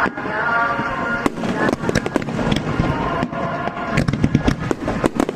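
Fireworks bursting in quick succession, dense bangs and crackling overlapping one another, with music playing alongside.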